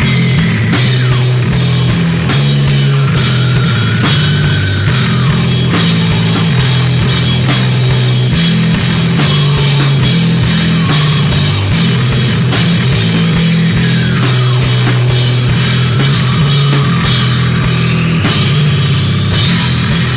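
Loud rock music: a drum kit hitting a dense, steady beat under a thick bass line and guitars. A lead line slides down in pitch early on, then climbs slowly near the end and drops away.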